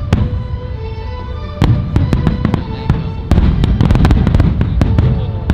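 Aerial fireworks going off in quick succession: deep booms with many sharp cracks, growing denser about halfway through, over music.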